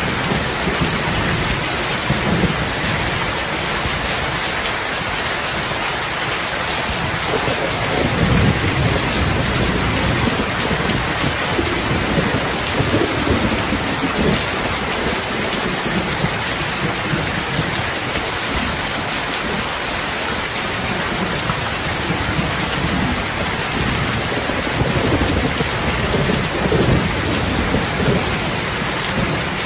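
Heavy rain falling steadily as a dense hiss, with low rolls of thunder swelling up several times.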